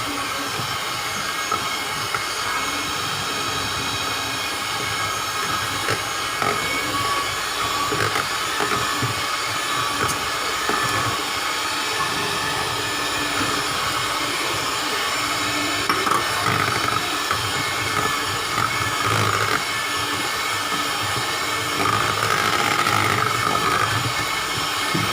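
Electric mixer running steadily, its motor whirring as it beats eggs into the cream cheese batter.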